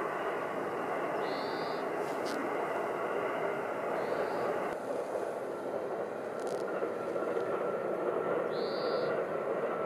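Distant Shinkansen high-speed train rushing along an elevated viaduct as a steady, even noise that changes abruptly about halfway and swells near the end. Three short high chirps sound over it.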